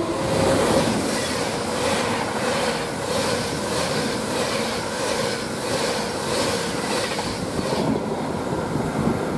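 Avanti West Coast Class 390 Pendolino electric train passing non-stop at speed: a steady rush of wheel and air noise with a regular beat, a little under two a second, as each coach's bogies go by. It dies away about eight seconds in.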